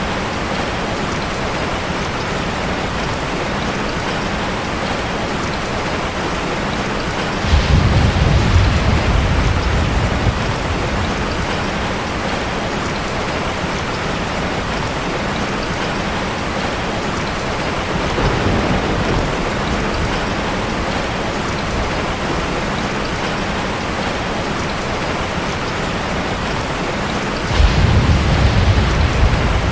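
Heavy rain falling steadily in a constant hiss, with deep thunder rumbles over it: a loud one about seven seconds in lasting a few seconds, a weaker one around eighteen seconds, and another loud one near the end.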